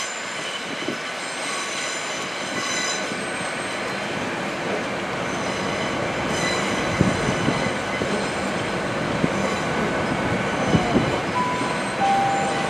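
GWR intercity train standing at the platform, its equipment running with a steady high whine over a general rumble. A few knocks come from about halfway through, and two short beeps sound near the end, the second one lower.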